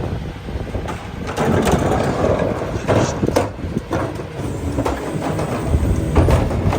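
McNeilus rear loader's packer crushing recyclables in the hopper, a run of crunching and clattering with several sharp cracks, over the low running of the truck's engine.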